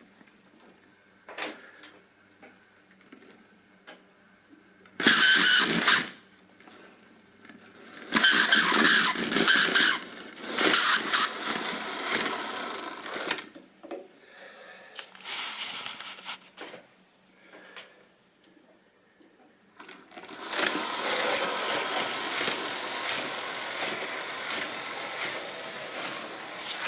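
A model railway train running on the track, with a small motor and wheels on the rails, in stretches. A short loud burst comes about five seconds in, then uneven running for a few seconds, then a steady run from about two-thirds of the way through.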